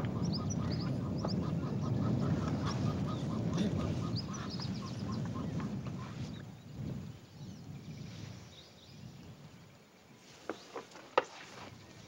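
Birds calling: a rapid run of short, evenly spaced notes and scattered high chirps over a low noise that fades after about six seconds, with a few sharp clicks near the end.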